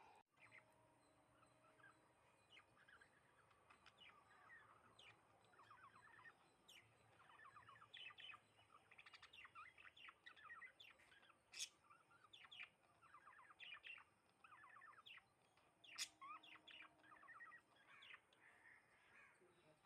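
Sparrows chirping: many short chirps in quick runs, which grow busier about eight seconds in.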